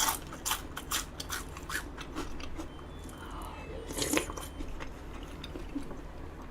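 Close-miked chewing and biting, with a quick run of crisp crunches in the first two seconds and a louder crunch about four seconds in.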